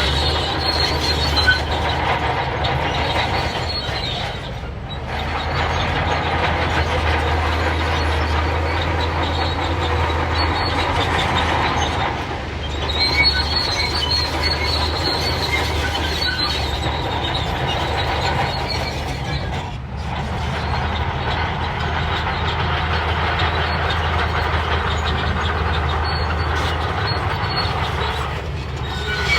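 Shantui crawler bulldozer working: its diesel engine runs steadily under load while the steel tracks squeal and clatter. The engine dips briefly three times.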